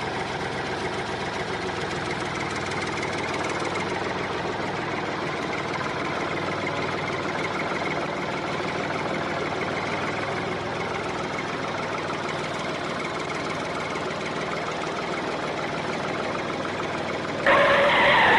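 Engine of a miniature tractor running steadily at idle, with a sudden louder sound near the end.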